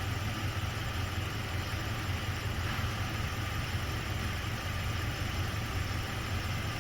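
Toyota 2.7-litre four-cylinder engine idling steadily and evenly, with a new ignition coil fitted: it no longer misfires.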